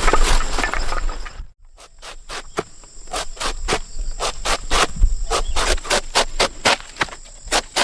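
Steady high insect trill, crickets, over the jungle. After a brief break about a second and a half in, a rapid run of sharp knocks follows at about four a second.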